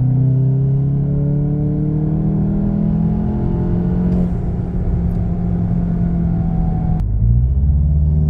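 The 2.0-litre EA888 turbo four-cylinder of a 2019 VW Jetta GLI, fitted with an aftermarket turbo intake, turbo inlet and turbo muffler delete, accelerating, heard from inside the cabin. The engine note rises for about four seconds with the turbo intake noise audible, then holds steadier. About seven seconds in it breaks off suddenly into a lower, steady engine sound.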